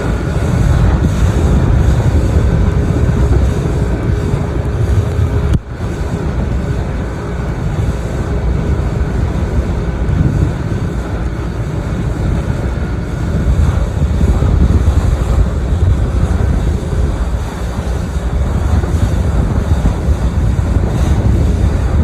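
Boat motor running steadily under way, with wind buffeting the microphone. There is a momentary break in the sound about five and a half seconds in.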